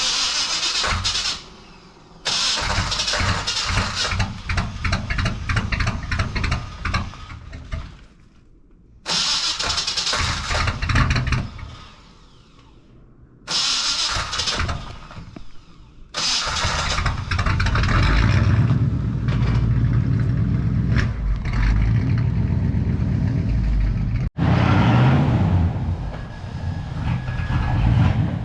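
Chevy 350 small-block V8 being cranked over by the starter in four separate tries of one to six seconds each. About 16 seconds in it catches and keeps running.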